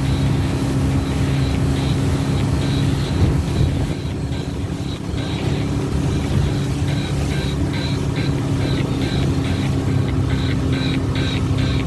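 Boat engine running steadily at sea, a continuous low drone. In the second half, short higher-pitched pulses repeat quickly over it.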